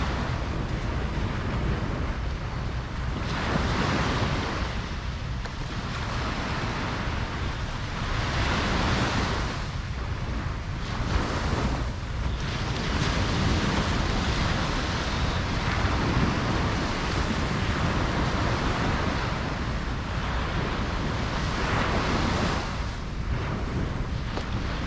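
Ocean waves breaking and washing up a beach, a wash of surf that swells every few seconds over a steady low rumble.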